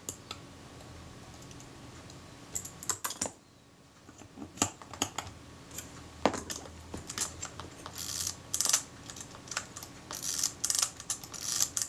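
Small metallic clicks, taps and scrapes from a Kodak Retina IIIc camera body as a screw is tightened and the film advance mechanism is worked. The clicks are scattered at first and come in quicker clusters over the last few seconds.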